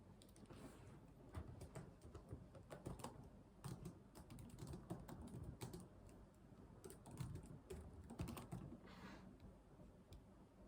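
Computer keyboard typing in irregular bursts of keystrokes with short pauses between them. A brief soft swish comes near the start and again about nine seconds in.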